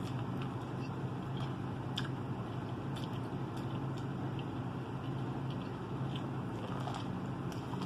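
Biting and chewing corn on the cob, close to the mic: scattered short, crisp clicks of kernels being bitten off and chewed, over a steady low hum.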